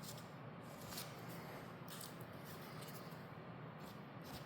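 Faint, soft scraping strokes of a putty knife spreading joint compound over a drywall patch, a few strokes at irregular intervals.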